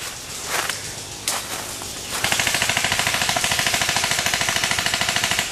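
Airsoft electric gun firing: a couple of single shots, then a rapid full-auto burst of about three seconds, starting a little past two seconds in.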